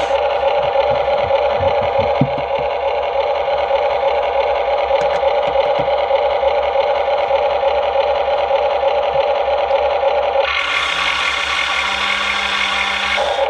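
Huina 1593 RC excavator's built-in sound module playing a steady simulated engine running through its small speaker. A few low knocks come in the first couple of seconds, and a harsher, brighter engine sound is layered on for about three seconds near the end.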